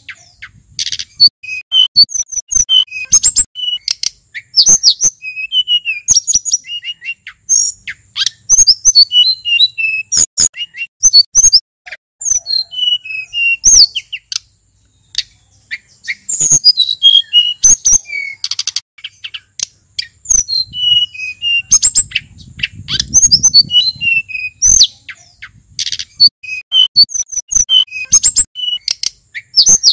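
A male sulingan gunung, a mountain songbird, singing a fast, varied song of short high chirps and trills in repeated bursts, with a brief pause about halfway through.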